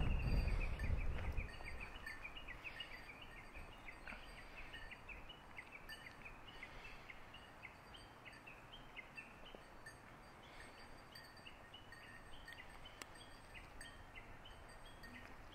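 A songbird calling in a long, quick series of short high chirps, going on almost without a break, over a quiet outdoor background. A louder low rumble fills the first second and a half.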